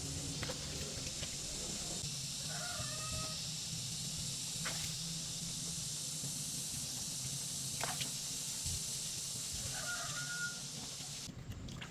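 A chicken calling twice, short pitched calls a few seconds apart, over a steady low hum and hiss, with a couple of sharp clicks between the calls.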